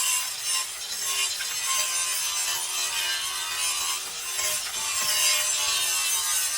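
Continuous rasping, scraping noise of hand work on a surface, steady in level.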